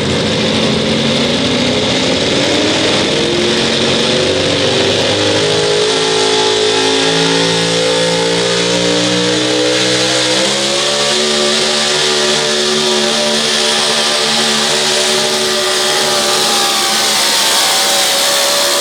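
Four-wheel-drive pulling truck's engine at full throttle under load, dragging the weight-transfer sled. The engine pitch climbs steadily and steps up twice, about six and ten seconds in.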